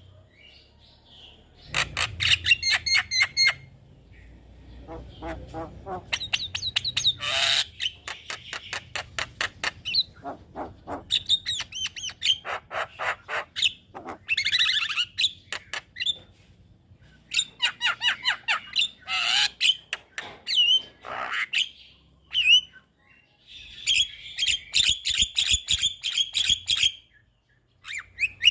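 Javan myna singing a long, varied song of fast runs of sharp repeated notes, harsh squawks and whistled calls, broken by a few short pauses.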